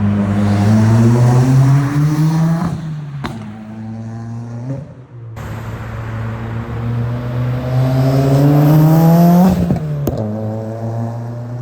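Subaru WRX's turbocharged flat-four with a new aftermarket exhaust accelerating hard, the revs climbing and dropping at gear changes about 3 and 5 seconds in, then a long climb before the driver lifts off and it settles to a lower, steadier note near the end.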